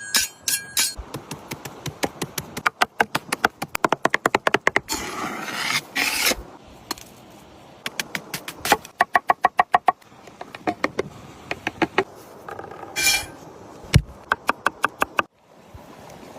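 Food being prepared by hand: runs of quick, sharp knife strokes on a wooden cutting board, several a second, broken by handling and scraping of the chopped food.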